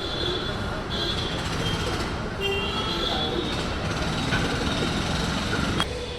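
A steady rumbling, rushing noise with faint high squealing tones that come and go, like a moving rail vehicle.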